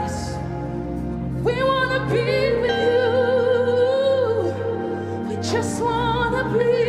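Worship music: a solo voice sings long held, wavering notes over a steady sustained accompaniment, pausing briefly in the middle.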